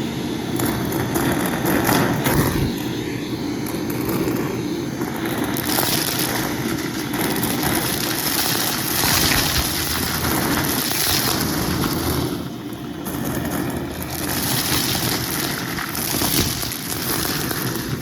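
Vacuum cleaner running, with a crackling hiss of crunchy debris being sucked up; the hiss eases briefly about two-thirds of the way through, then returns.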